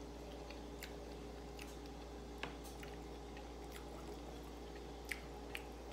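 Quiet chewing of a mouthful of hamburger, with a few faint, sharp mouth clicks, over a steady low hum.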